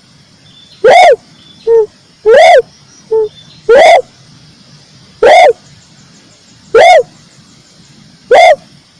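Repeated coos of a tekukur merah dove: six loud, short, arched notes about every one and a half seconds, with two shorter, lower notes between the first few.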